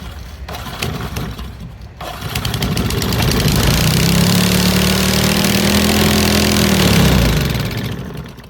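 Old Briggs & Stratton single-cylinder engine catching about two seconds in, running fast and steady for about five seconds on the fuel in its tank, then slowing and dying away near the end.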